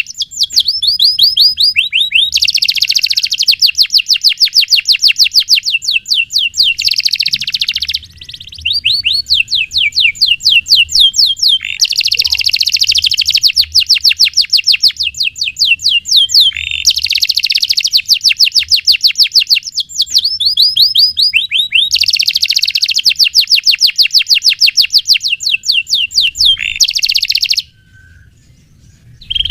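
Domestic canary singing long, fast rolling trills: phrases of rapidly repeated high notes a few seconds each, following one after another. The song breaks briefly about a third of the way in and stops near the end.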